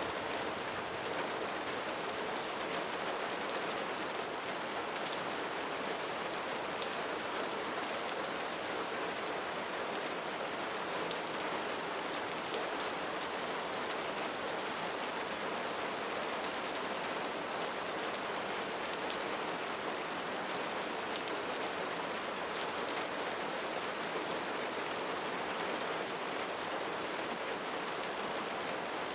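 Steady rain falling on leaves, an even hiss with scattered sharper drop taps.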